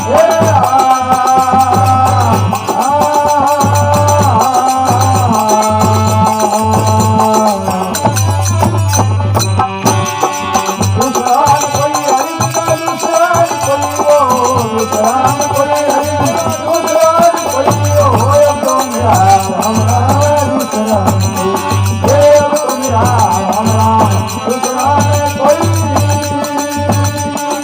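Instrumental interlude of a Rajasthani folk bhajan: a melody instrument plays held, gliding notes over a steady drum beat with manjira hand cymbals keeping time.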